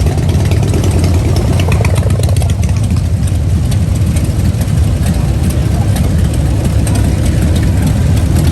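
Vehicle engine idling with a steady, deep rumble.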